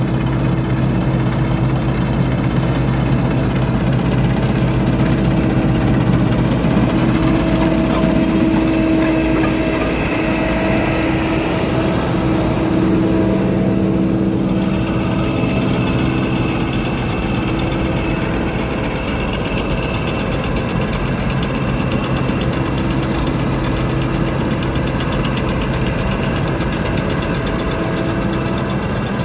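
Combine harvester's diesel engine running steadily, with a faint high whine from the machine over the engine note.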